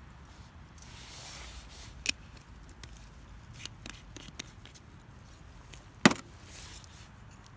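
Scattered light clicks and knocks with brief rustling, and one sharp knock about six seconds in.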